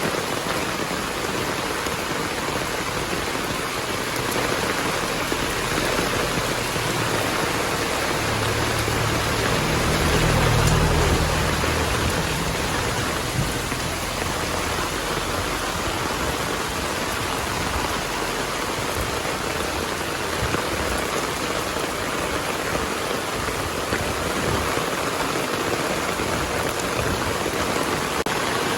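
Heavy rain falling steadily. About ten seconds in, a low rumble of thunder swells and fades.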